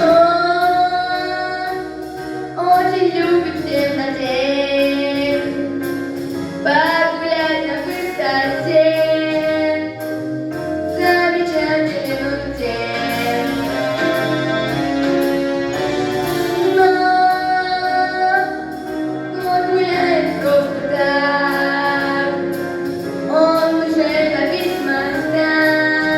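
A girl singing long, held notes with slow glides between them, over a musical backing.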